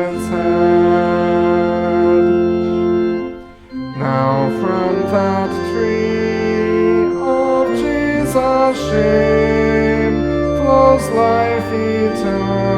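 Church organ playing a hymn in slow, held chords, with voices singing along; the music dips briefly between phrases about three and a half seconds in.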